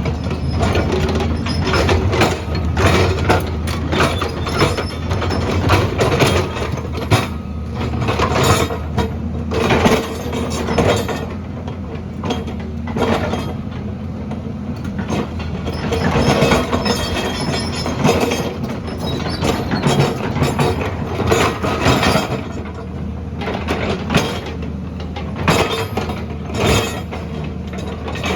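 Heavy earthmoving machine's diesel engine running steadily under load, with frequent irregular clanks and clinks of metal and rock as it works.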